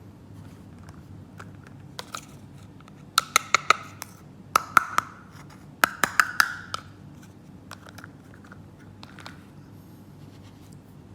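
Small hard plastic toy pieces being handled, clicking and clattering together in three short flurries about three, four and a half, and six seconds in, each click with a brief ring, and lighter clicks in between.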